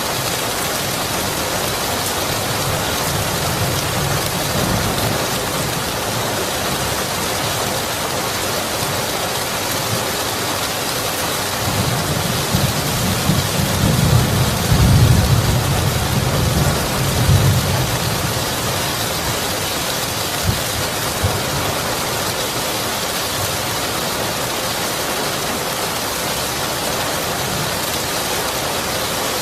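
Steady heavy rain, with a low roll of thunder that swells and fades about halfway through.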